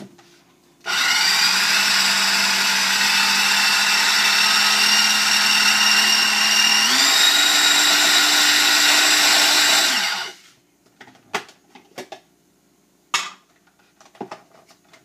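Small electric food chopper running, chopping boiled chicken, for about nine seconds; its whine steps up in pitch about seven seconds in. A few light knocks follow after it stops.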